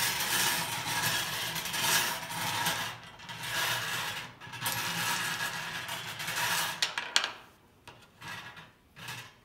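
Drawing cage full of numbered balls being turned, the balls tumbling and rattling inside for about seven seconds with two short dips, then a few brief rattles near the end.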